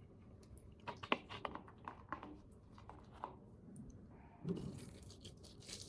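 Faint eating noises: scattered small clicks and taps, with a soft low mouth sound about four and a half seconds in.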